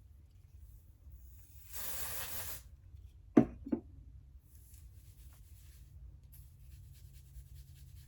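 A hair spray bottle misting once, a hiss lasting under a second about two seconds in, followed a second later by two sharp knocks in quick succession, with light rustling of hair and hands around it.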